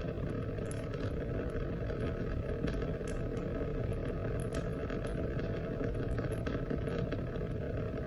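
Steady rain falling, a constant low rushing hiss with many small drops ticking sharply at irregular moments.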